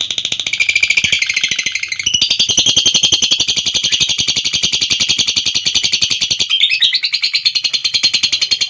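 Lovebird 'ngekek': one long unbroken run of rapid, high-pitched chattering notes, many to the second, with small shifts in pitch about two seconds in and again near the end.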